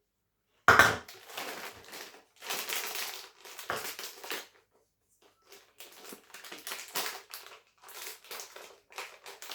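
Crinkling and rustling of a bag being handled, in irregular bursts, with a sharp knock about a second in.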